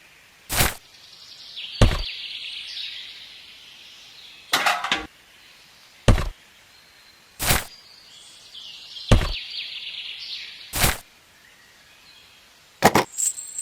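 A series of sharp knocks or thumps, one about every one and a half seconds, some coming as quick doubles, over a faint, steady high hiss.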